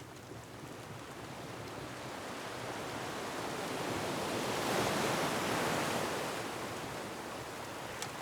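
Ocean waves breaking on a rocky shore: one long surge builds to a peak about halfway through, then recedes. A fireplace crackles with a single sharp pop near the end.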